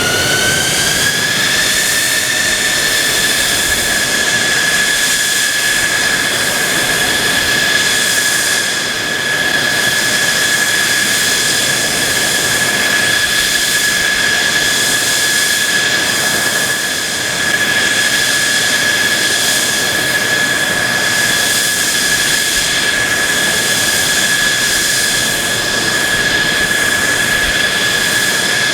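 The F-2B fighter's single F110 turbofan running loud, with a high whine that rises in pitch over the first couple of seconds and then holds steady over the rushing jet noise.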